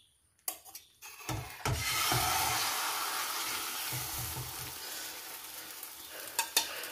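Spanish omelette of egg, potato and onion slid off a plate with a metal spatula back into a hot oiled frying pan: a couple of dull knocks as it lands, then a steady sizzle of the raw side frying that slowly fades. A light clink near the end.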